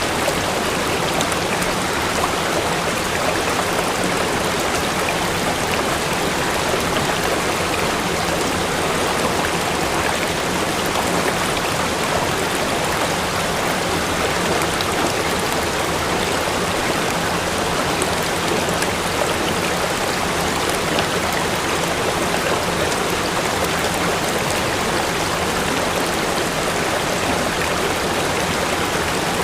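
Steady rushing of a river waterfall, water pouring over rock.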